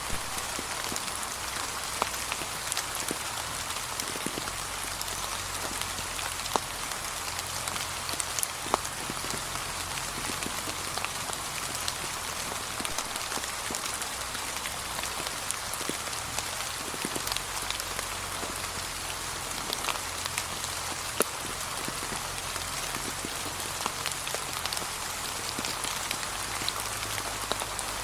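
Steady light rain, many individual drops ticking through a continuous soft hiss, falling on a path of fallen autumn leaves.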